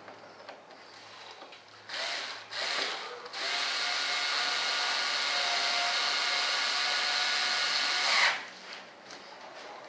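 Small handheld electric power tool blipped twice, then run steadily for about five seconds before cutting off.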